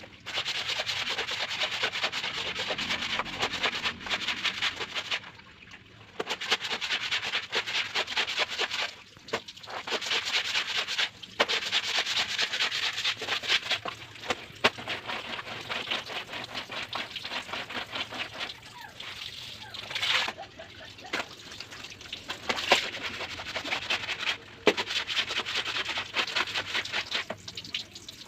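Wet laundry being scrubbed by hand: fast, rasping rubbing strokes in runs of a few seconds broken by short pauses.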